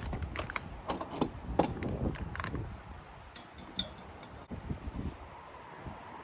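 Camp cooking gear being handled: a quick run of sharp clicks and clatters in the first couple of seconds, then a few scattered clicks, over low wind noise.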